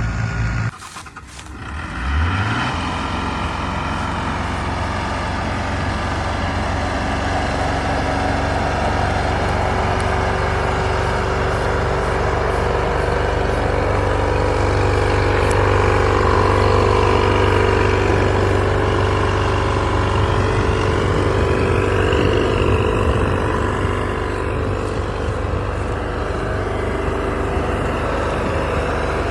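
Diesel engine of heavy farm machinery running steadily under load. It drops out briefly about a second in, comes back with its pitch rising, then holds steady.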